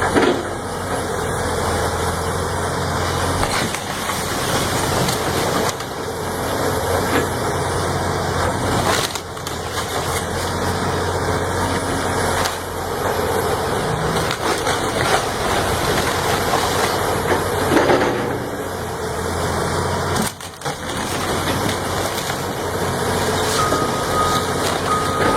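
Heavy forestry machinery running under load while wood cracks and splinters. A reversing beeper starts near the end.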